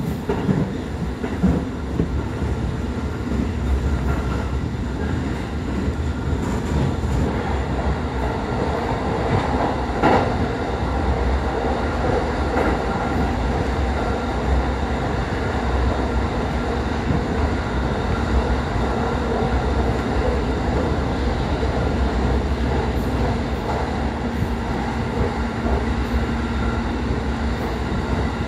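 JR Keiyo Line rapid train running at speed, heard from inside the carriage: a steady rumble of wheels on rail and traction motors, with one sharper knock about ten seconds in.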